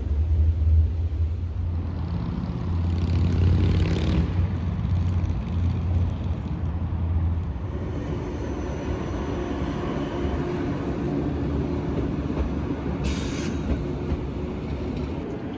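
A large vehicle running with a steady low rumble and hum, which eases into a lighter rumble about halfway through, with short hisses about 4 s in and near the end.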